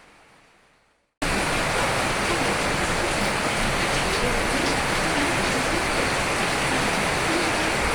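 Steady, even rain that starts abruptly about a second in, after a fainter sound fades out to a moment of silence.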